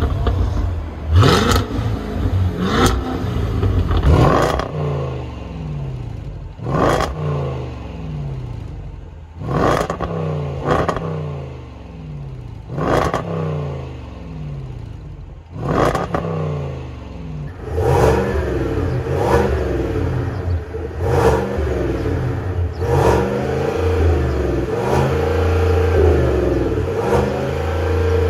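Performance car engine revved in repeated throttle blips, each with a sharp onset and a pitch that rises and falls back, every one and a half to three seconds. From about two thirds of the way in the engine holds a steadier, higher note between the blips.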